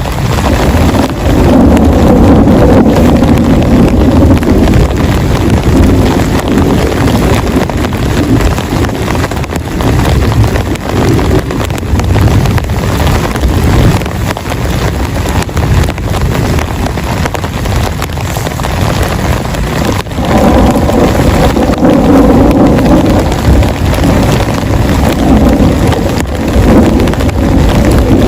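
Heavy rain pouring down and drumming on a camping shelter, loud and steady, under a deep rumble that swells twice, about two seconds in and again past the middle.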